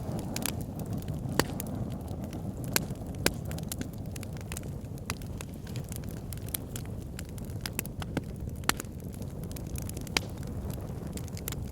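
Fire burning in a fire pit, with a steady low rush of flames and irregular sharp crackles and pops throughout. A few pops stand out louder, about a second and a half in, twice around three seconds, and again near nine and ten seconds.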